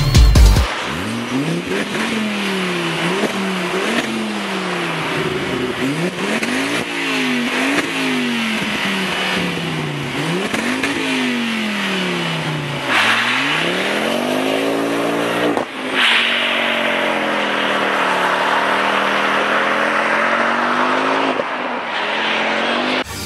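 Ford Focus ST engine breathing through a Dreamscience full exhaust system, revved again and again so the note climbs and drops every second or two. Later it makes one longer, slower climb and fall.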